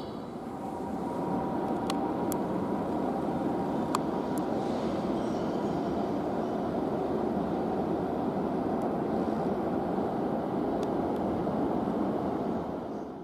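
A train running past, a steady noise of wheels and running gear with a faint high tone, and a few light clicks in the first half.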